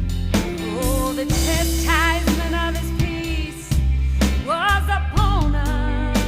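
A song: a woman singing a melody with wide vibrato over a band with drums and a steady bass line.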